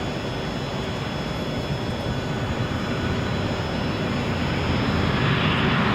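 Jet airliner's engines: a steady rush with a thin high whine, slowly growing louder as the plane approaches.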